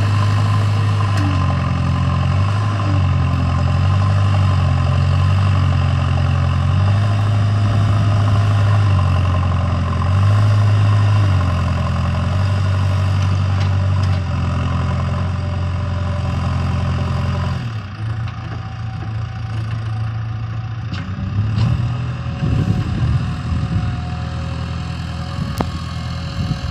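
Heavy diesel machinery engine running under changing load, its pitch stepping up and down repeatedly. About 17 seconds in it drops to a lower, rougher running with a few knocks.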